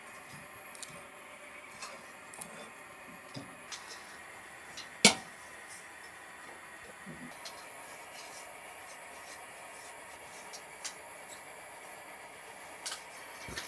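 Scattered light clicks and knocks over a faint steady hiss, with one sharp, loud click about five seconds in.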